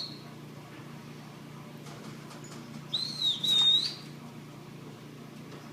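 A single high whistled note about three seconds in, dipping and rising and then held for about a second, over a low steady background hum.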